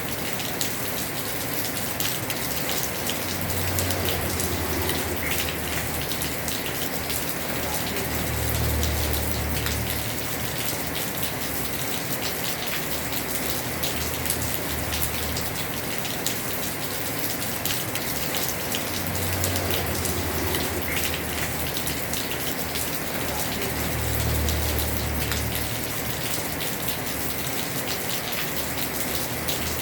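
Heavy rain falling steadily on a house roof, a dense patter of drops, with a low rumble that swells and fades every few seconds.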